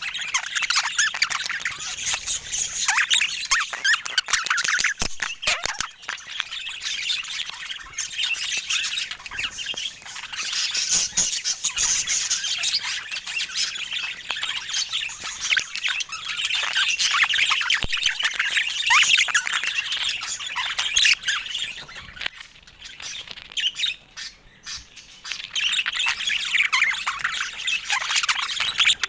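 Budgerigar chatter: fast, continuous chirping, warbling and squawks, with a brief lull late on.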